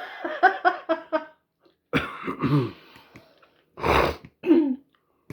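A person laughing in short rhythmic bursts, then a sharp cough about four seconds in from someone eating fiery-hot chilli curry.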